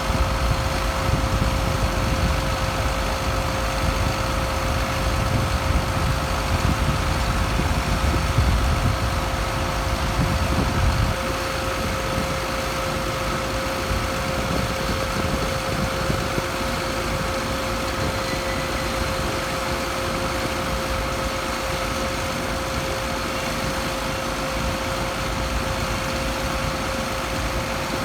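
An engine running steadily with a constant whine, heavier low rumble easing off about a third of the way through.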